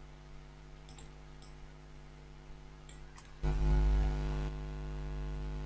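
A few faint computer mouse and keyboard clicks. About three and a half seconds in, a steady low electrical buzz starts, eases a little a second later and carries on.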